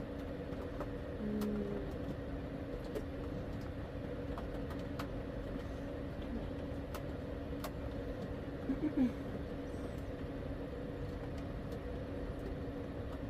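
A steady mechanical hum, with scattered faint clicks and taps over it and a brief short tone about a second in.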